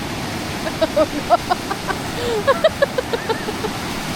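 Sea waves washing on a beach, with a quick run of short, high calls over the top.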